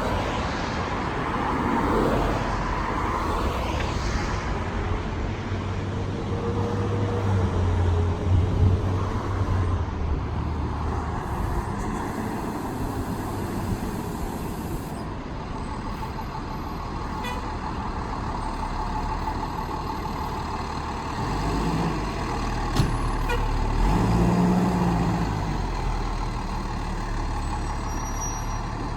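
Fire engine's engine running at low speed while it reverses, with one sharp click about three-quarters of the way through.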